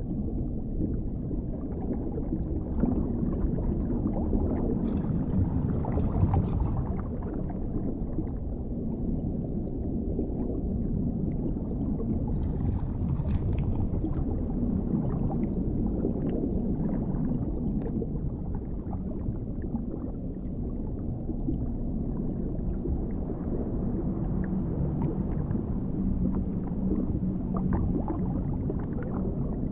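Underwater ambience: a deep, muffled, steady rumble of water, with faint bubbling or gurgling rising above it twice.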